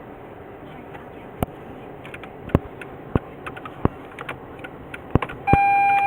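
A scattering of sharp single clicks over a steady low hiss, then a loud steady electronic beep starting about five and a half seconds in and lasting under a second.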